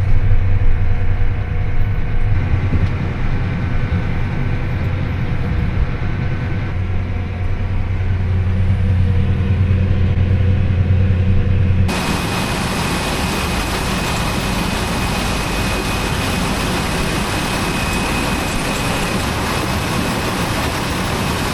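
Harvest machinery engine running with a steady low drone. About twelve seconds in it switches abruptly to an even rushing machine noise with a faint high steady whine.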